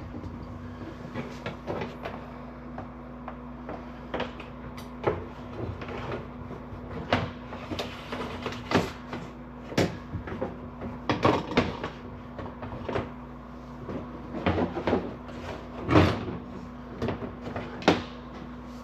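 Irregular knocks, clicks and clatter of hardware being handled and fitted by hand, a few sharp strikes a second or so apart, over a steady low hum.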